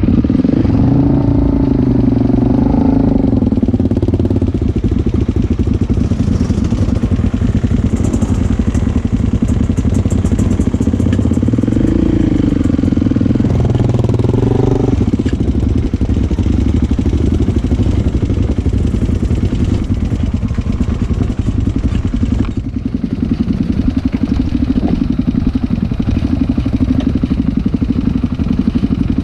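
Motocross motorcycle engines running and revving, their pitch rising and falling in the first few seconds and again about halfway through, then running steadily.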